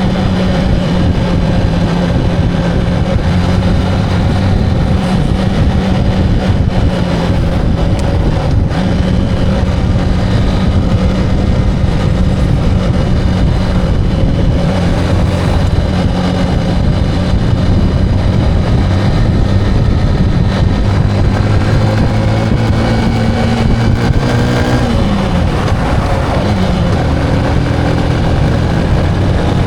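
Motorcycle engine running steadily under way, with road and wind noise. About 25 seconds in the engine note drops, then settles back to a steady hum.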